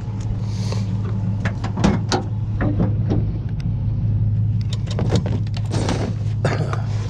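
Irregular clicks and knocks of a vacuum cleaner being handled and pulled at while searching for its cord, over a steady low hum.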